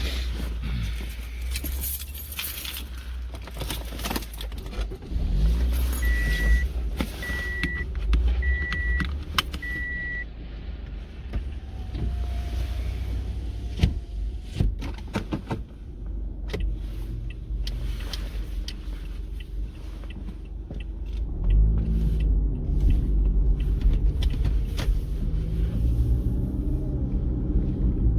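Car driving, heard from inside the cabin: a steady low engine and road rumble with scattered clicks and rattles. Four short high beeps come evenly spaced about six seconds in, and the engine pulls harder for the last several seconds.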